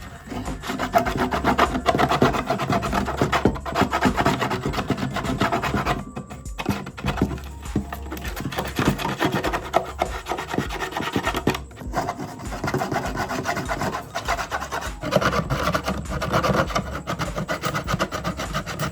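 Wooden hammer handle being worked by hand with an abrasive, a rapid rough scraping rubbing, with two short pauses about six and twelve seconds in.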